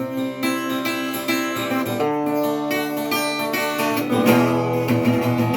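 Acoustic guitar strumming chords as the closing instrumental part of a song.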